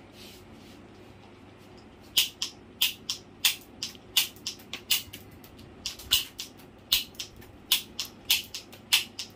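Toy airsoft revolver being fired repeatedly: a quick series of sharp clicks from its trigger and hammer, about two or three a second, starting about two seconds in.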